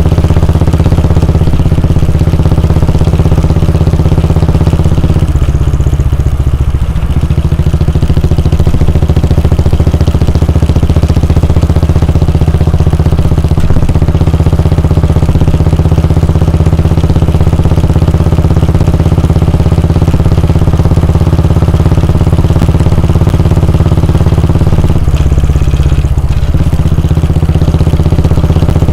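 Royal Enfield Bullet 350's 349 cc air-cooled single-cylinder engine running steadily with its thump, with brief changes in tone about five seconds in and again near the end.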